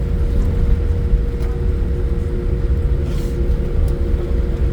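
Jet airliner cabin noise: a loud, steady deep rumble with a constant engine hum, with a brief hiss about three seconds in.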